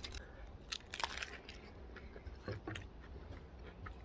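A person eating crisps: sharp crunching bites, the loudest about a second in and a couple more around two and a half seconds, with chewing in between.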